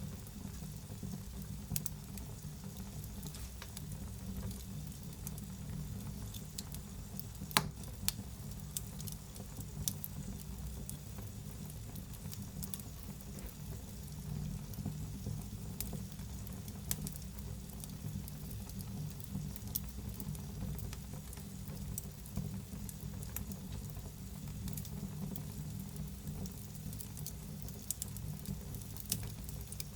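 Wood fire in a fireplace crackling, with scattered sharp pops over a steady low rumble; one pop about seven and a half seconds in is much louder than the rest.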